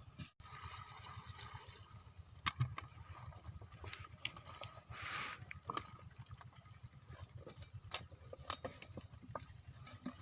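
8 hp diesel engine pump set running at a steady, rapid chugging rhythm, with water pouring and a few sharp knocks.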